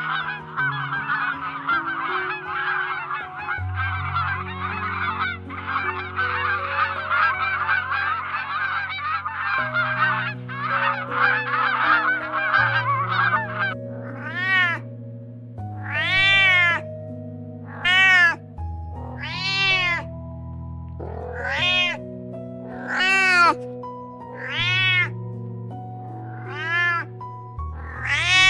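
For the first half, a flock of waterfowl calls in a dense, overlapping chatter. After that, a domestic cat meows about nine times, each meow rising and falling in pitch, one to two seconds apart. Slow background music with long held notes plays throughout.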